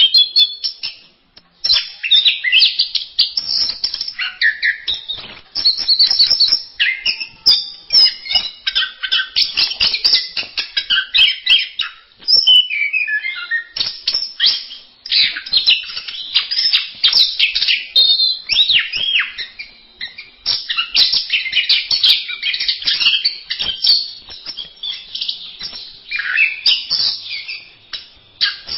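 Orange-headed thrush (anis merah) singing a long, fast, varied song of chirps, trills and whistles, with brief pauses about a second in and near the middle.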